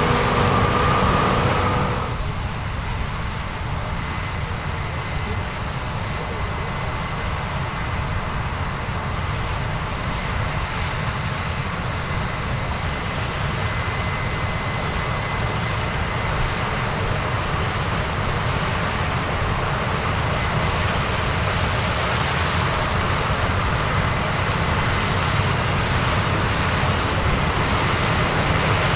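Combine harvester running steadily in a corn field, a continuous even machine noise with a faint high whine. About two seconds in, a louder humming sound with a steady pitch cuts off abruptly.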